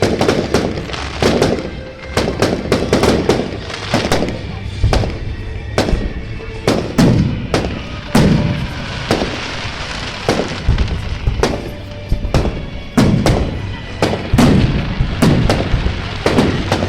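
Fireworks going off in a fast, continuous barrage: sharp bangs and crackles several a second, each trailing off in a smear of rumble.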